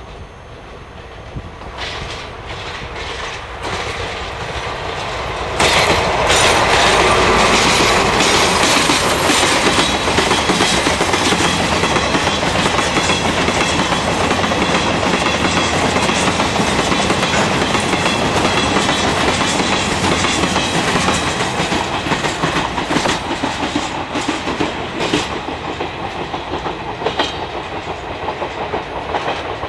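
Freight train passing close by: the sound builds, then jumps sharply about five and a half seconds in as the train reaches the spot, and the wagons' wheels clack rapidly over the rail joints. It eases slightly near the end.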